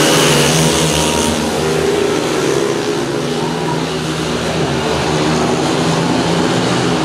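Speedway motorcycles' single-cylinder engines running hard as they race round the track, a steady high-revving drone with the pitch wavering near the start.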